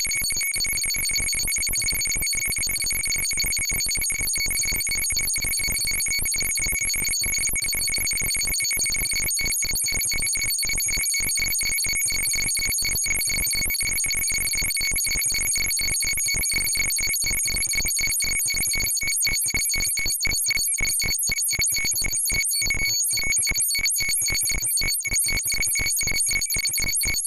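Homemade electronic sound circuit giving a steady high-pitched electronic tone with overtones over a fast, dense buzzing crackle, at a constant level.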